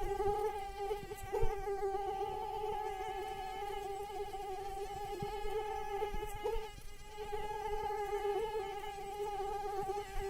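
Female mosquito's whine in flight: a steady, slightly wavering high buzz that fades briefly about seven seconds in. A short soft knock sounds about a second and a half in.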